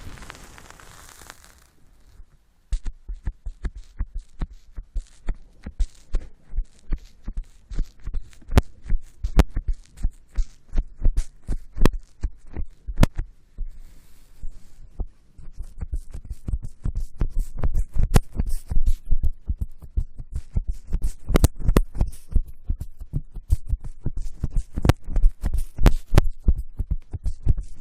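Rapid dull thumps and taps on an ASMR microphone, several a second and heavy in the low end, with occasional sharper clicks. They start a couple of seconds in, after a brief soft hiss dies away.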